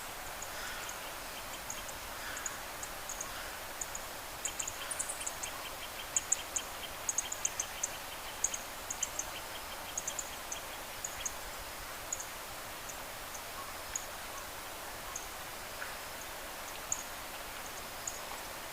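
Small birds giving short, high chirps over a steady outdoor hiss, with a fast run of even ticking calls from about a quarter to just past halfway through.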